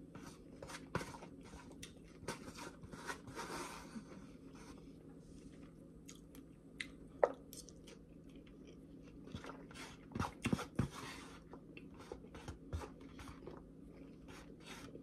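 A person chewing and crunching a beet, cucumber and onion salad close to the microphone, with irregular sharp crunches and clicks, the loudest about seven seconds in and a cluster around ten to eleven seconds.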